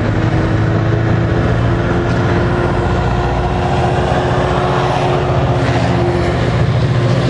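A diesel passenger locomotive's engine running steadily close by, a low even hum with a steady higher tone above it, over the hiss of heavy rain.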